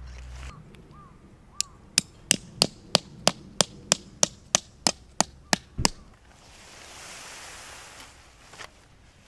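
A steady run of about a dozen sharp knocks, roughly three a second, that stop abruptly, followed by a short soft hiss.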